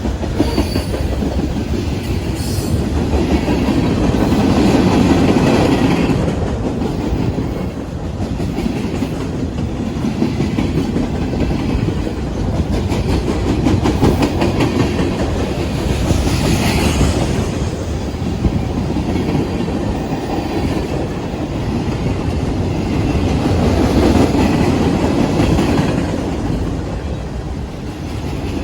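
Manifest freight train rolling past, a steady rumble of railcars with the clickety-clack of wheels over rail joints. It swells and eases as cars go by, with brief higher-pitched rises about two seconds in and near the middle.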